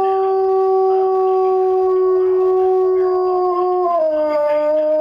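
A dog howling in response to a tornado siren: one long, steady howl that drops to a lower pitch about four seconds in.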